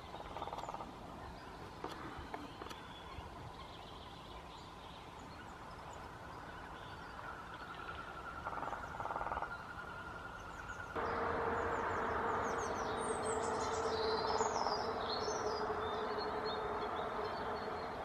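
Outdoor ambience: a steady low hum that grows louder about eleven seconds in, with a brief cluster of high bird chirps a little later.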